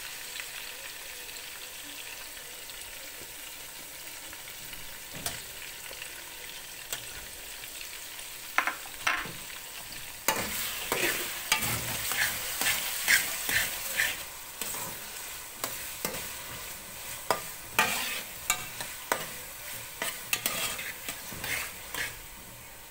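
Chicken cubes frying in ghee in a metal pot, a steady sizzle. From about eight seconds in, a metal fork repeatedly scrapes and knocks against the pot as ketchup is stirred through the chicken.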